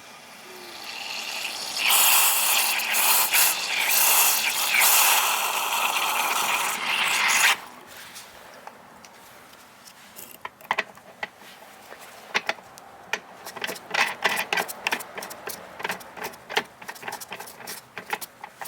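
A loud hiss swells up over about two seconds, holds for several seconds, then cuts off suddenly. It is followed by a run of light clicks and scrubbing taps.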